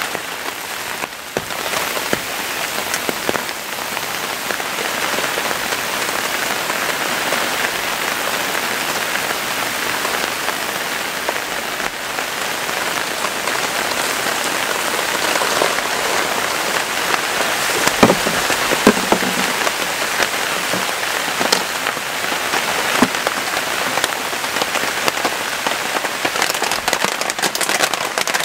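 Heavy rain falling steadily in a dense hiss, with scattered sharp ticks of drops striking surfaces. There is one louder knock about two thirds of the way through, and the ticking grows denser near the end.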